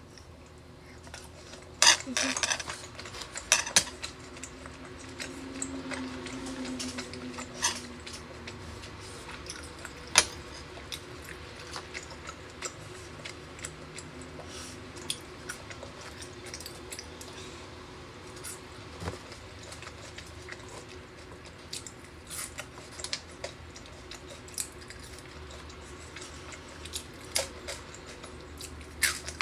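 Close-up eating sounds: chewing steak and fries with wet mouth clicks, along with a fork and knife clinking against a wooden board. The clicks are loudest in a cluster about two to four seconds in.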